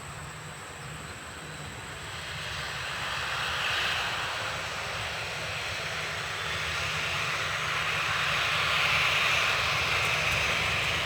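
Airplane engine noise, a steady rushing sound that swells and grows louder as the aircraft comes closer.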